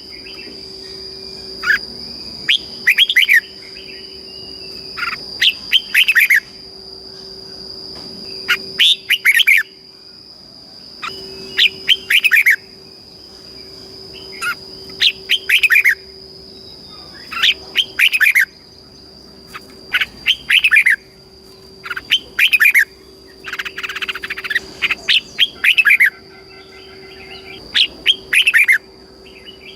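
Red-whiskered bulbul singing: short, loud, warbled phrases repeated about every two to three seconds, over a steady high-pitched tone.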